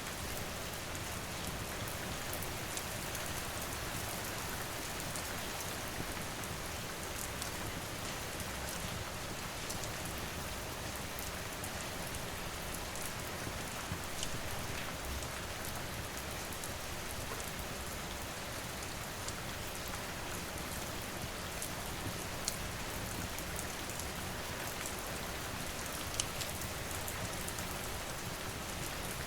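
Steady rain falling, with scattered sharp crackles from a wood fire; a few louder pops stand out, around a third, three quarters and nine tenths of the way through.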